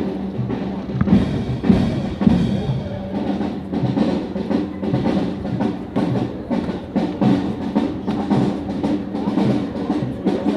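Marching band drums, snare and bass drum, playing a steady rhythm.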